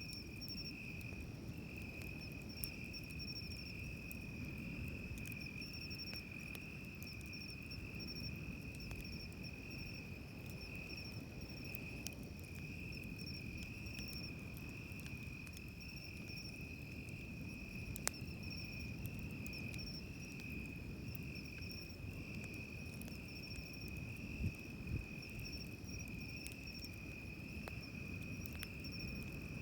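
Insects trilling steadily at a high pitch over the low, continuous wash of surf on the beach, with a few sharp pops from a crackling wood campfire, the loudest about midway and two more close together near the end.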